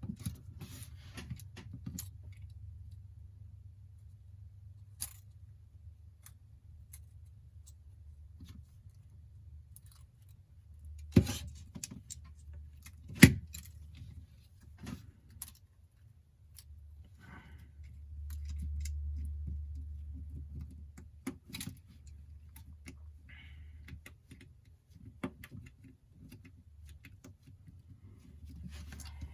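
Small tools and phone parts being handled during iPhone 8 reassembly: scattered light clicks and clinks, with two sharp clicks about eleven and thirteen seconds in, over a low steady hum.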